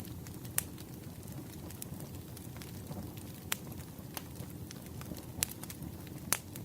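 Campfire crackling: a steady low rumble of burning wood with many small snaps and four sharper pops spread through.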